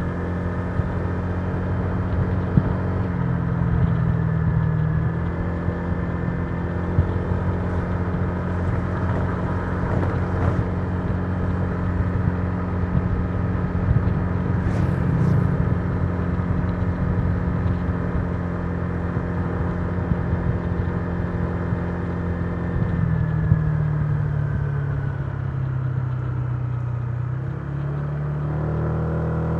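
Honda Giorno 125 scooter's single-cylinder engine running at a steady cruise, heard from the rider's seat with road and wind noise. The engine pitch dips briefly about three seconds in, then drops for several seconds as the scooter slows and rises again near the end.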